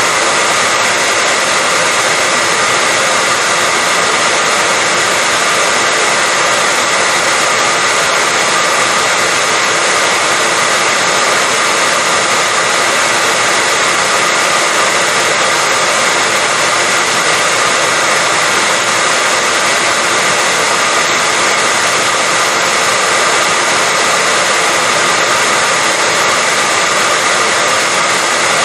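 Hair dryer blowing continuously, a steady rushing of air with a faint constant whine from its motor and no change in speed.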